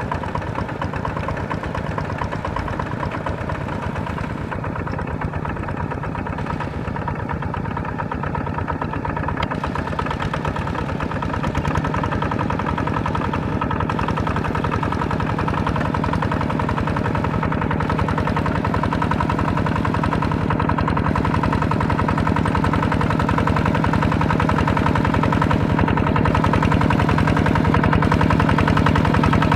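Small farm tractor engine running steadily, slowly growing louder, with a deeper hum setting in about twelve seconds in.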